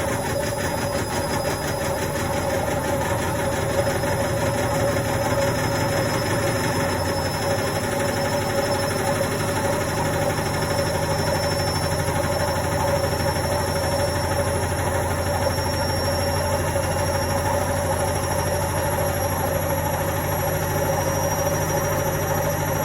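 Indesit washing machine running a quick cotton wash: a steady mechanical hum with a thin high whine that rises slowly, and a low rumble that grows stronger about a third of the way in.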